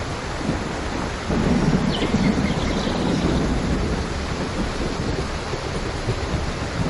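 Steady heavy rain with a low rumble of thunder that swells about a second in and fades over the next few seconds.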